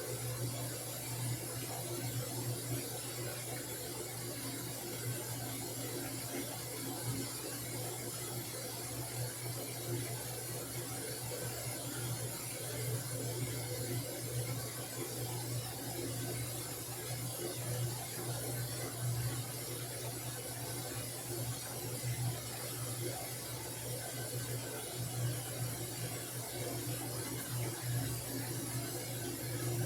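Washing machine running its wash cycle: a steady low hum with a slightly wavering level.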